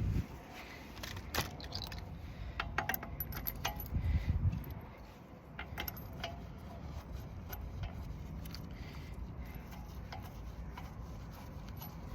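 Scattered light metallic clinks and rattles of steel wheel bolts being handled and started by hand while a car's rear wheel is refitted. There is a duller low bump about four seconds in.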